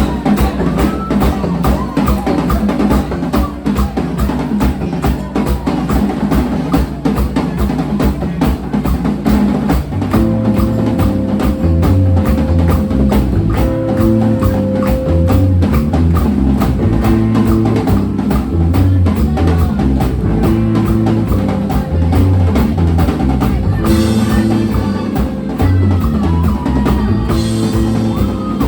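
Live band music driven by a drum kit with a steady bass drum and snare beat; a bass line comes in about ten seconds in.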